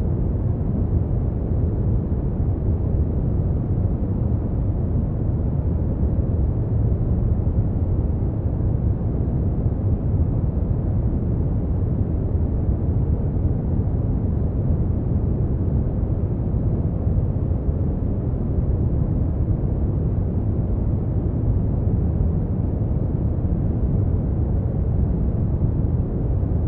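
Brown noise: a steady, unchanging deep rushing hiss, strongest in the low end and dull at the top, with no events or rhythm.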